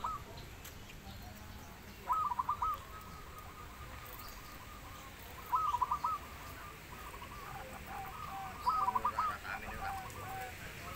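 Zebra dove (perkutut) cooing: three short bursts of quick coos, each followed by softer trailing notes, about three seconds apart.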